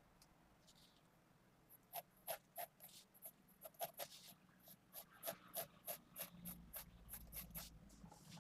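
Faint, quick, short pencil strokes on paper, about three a second, starting about two seconds in: graphite hatching or shading with a 0.5 mm mechanical pencil.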